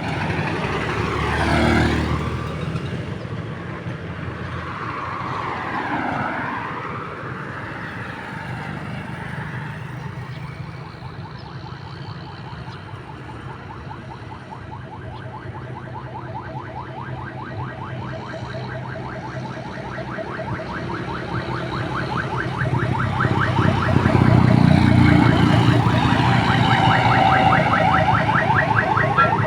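Motorcycle engines running in a slow parade, with a siren-like alarm tone sweeping down and up and then warbling fast over them, growing louder in the last few seconds.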